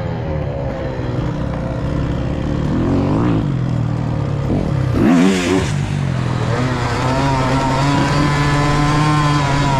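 Motorcycle engines running and revving. Engine notes sweep up and down, loudest about five seconds in, then one engine holds a steady note.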